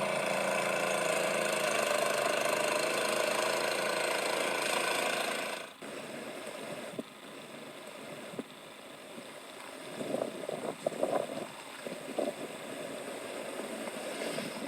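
An engine running steadily, which cuts off abruptly about six seconds in; a quieter stretch follows with a few scattered clicks and knocks.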